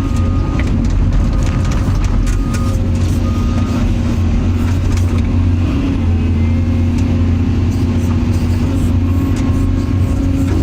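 Excavator's diesel engine running at a steady working speed, with a few faint clicks and knocks.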